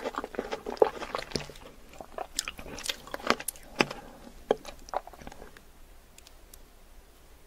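Close-miked chewing of juicy fresh fruit: wet clicking, smacking and crunching mouth sounds, dense at first, then thinning out to a few faint clicks after about five seconds.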